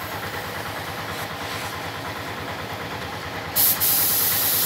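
A compressor runs steadily. About three and a half seconds in, a paint spray gun opens with a loud hiss of air, stops for a moment and resumes as clear-coat spraying begins.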